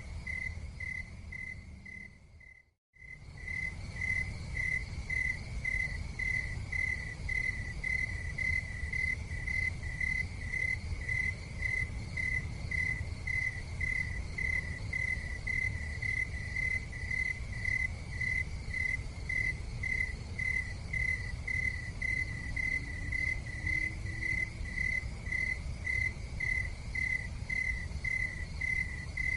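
Crickets chirping in a steady, even pulse of about two chirps a second over a low, steady rumble of background noise. The sound fades out briefly about three seconds in, then resumes.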